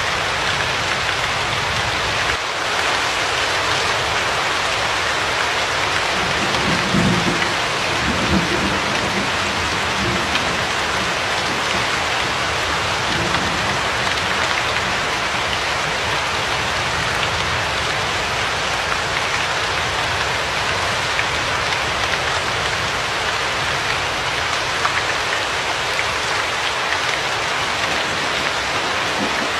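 Steady rain, an even hiss throughout, with a low roll of thunder about six to nine seconds in.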